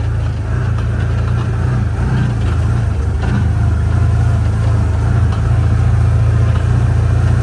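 Vehicle engine running with a steady low drone as it drives slowly along a farm field road.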